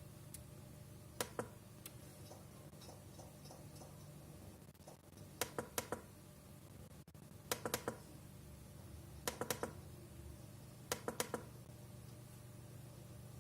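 Clicking on an Irbis NB60 netbook: short clusters of two to four sharp clicks, five times, every couple of seconds, over a faint steady low hum.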